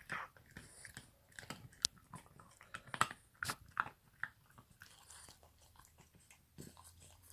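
French bulldog puppy chewing on a brush: irregular crunching and clicking bites, with a few sharper snaps in the middle.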